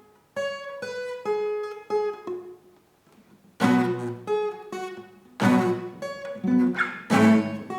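Acoustic guitar playing part of an intro figure in F-sharp minor: a few single notes plucked one after another, then, after a short pause, three full chords struck and left ringing, with a little-finger note added on the second string.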